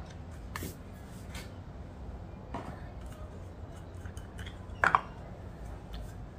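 Scattered metal clinks and taps as the 2AZ-FE intake camshaft and its parts are handled on the aluminium cylinder head, the loudest a ringing clink about five seconds in.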